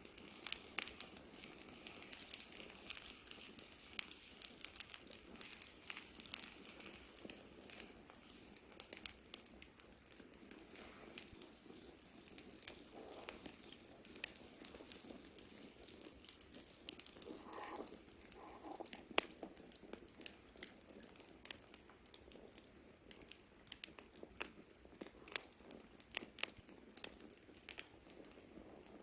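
Wood bonfire crackling: irregular sharp pops and snaps, some much louder than others, over a faint steady rush of the burning fire.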